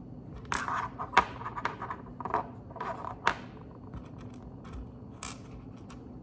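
Lego pieces being handled during building: short plastic rustles and scrapes with a few sharp clicks.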